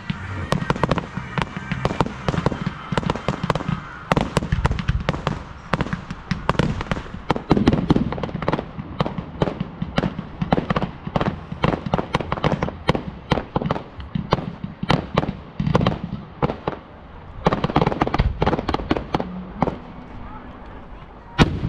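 Fireworks display: rapid, dense volleys of sharp cracks and bangs, with deeper booms of larger bursts mixed in and a single loud bang near the end.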